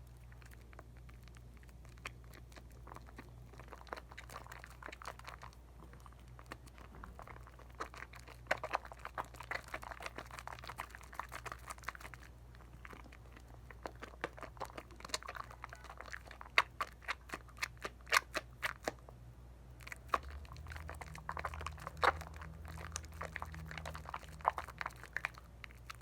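Dial coconut soap being worked into a lather in wet hands: irregular wet crackling and squishing of suds with sharp little clicks. It is sparse at first and gets busier and louder after about eight seconds, over a steady low hum.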